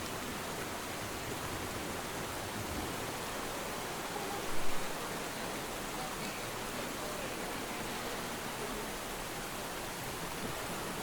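Steady rain falling as an even hiss, with one brief louder sound a little before halfway through.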